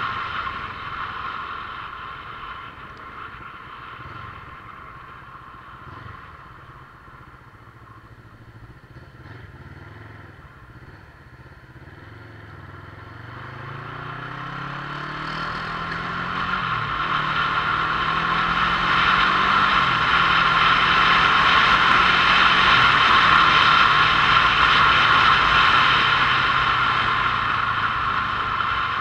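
Motorcycle engine, quieter at first, then accelerating about halfway through with a rising note that drops back twice at gear changes before holding steady and growing louder.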